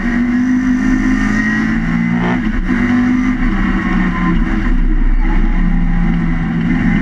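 Swiftune-built A-series four-cylinder engine of a historic Mini Cooper race car, running hard at racing revs, heard from inside the stripped cabin. The engine note dips briefly about two and a half seconds in and again around five seconds in, then carries on steady.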